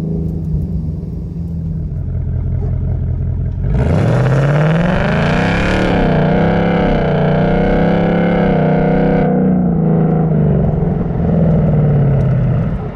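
2019 Mustang GT's 5.0-litre V8 through a Pypes H-pipe exhaust, idling, then taking off hard about four seconds in. The note climbs, dips once and climbs again, holds, then drops as the throttle comes off a few seconds before the end.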